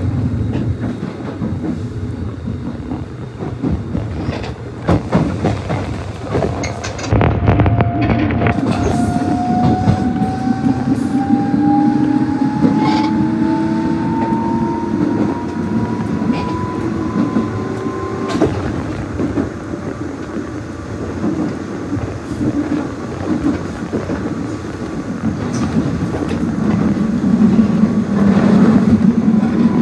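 Nishitetsu 600 series electric train running, its motor whine rising steadily in pitch for about the first eighteen seconds as it picks up speed, then holding level. Wheels click over the rail joints, and the low running rumble grows louder near the end.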